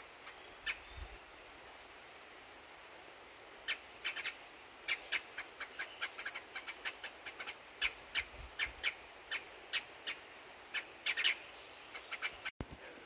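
A bird calling in a quick, irregular series of short, sharp notes, a few a second, sparse at first and busier from about four seconds in, over a faint steady outdoor hiss.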